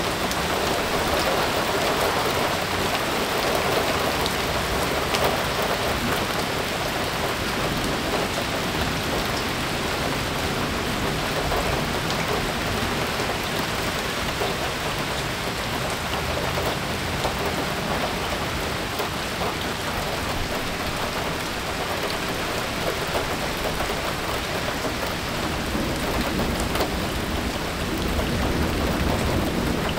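Heavy rain pouring steadily onto flooded grass and standing water, a dense hiss of drops splashing into the pooled water.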